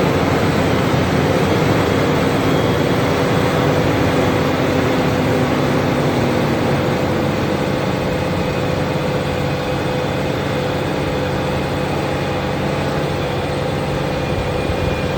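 Fendt tractor's diesel engine running steadily while ploughing, a loud even drone with a constant hum.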